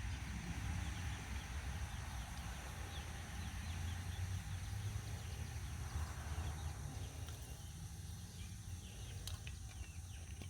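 Faint, repeated short bird chirps over a low steady hum, with a single sharp click near the end.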